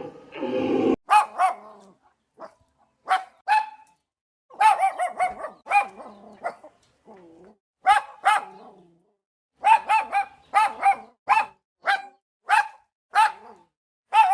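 A dog barking repeatedly: short, sharp barks, some single and some in quick clusters, settling into a steady run of about two barks a second in the second half.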